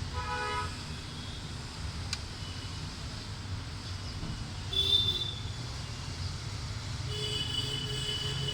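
Steady low traffic rumble with horn-like tones sounding briefly at the start, once about five seconds in, and again near the end.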